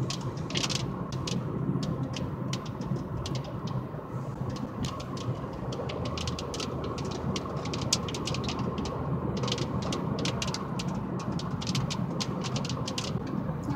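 Rain falling in a thunderstorm: many sharp ticks of drops striking close by over a steady low rumble, the ticks coming thicker in the second half.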